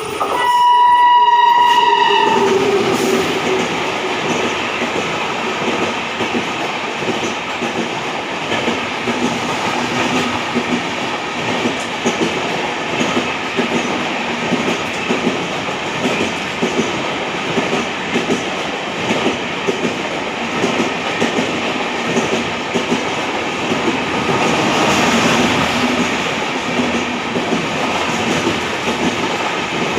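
Indian Railways express train passing close by. It opens with a horn blast of about two seconds, then runs past with a steady rumble and clatter of wheels over rail joints, growing louder again near the end.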